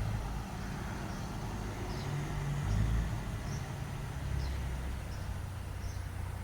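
Garbage truck engine running, a steady low rumble that shifts up and down in pitch now and then.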